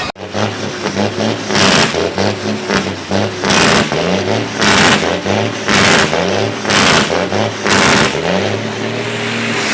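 Heavy truck engine revved in quick repeated blips, its pitch climbing and dropping again and again, with bursts of hissing about once a second.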